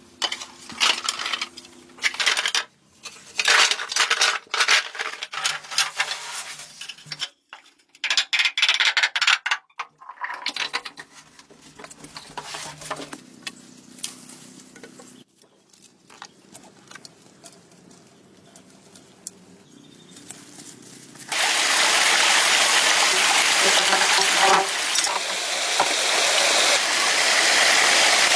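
Clinking and scraping knocks, broken by sudden cuts, then from about twenty seconds in a loud, steady rush of flowing water, as when water pours into a pool.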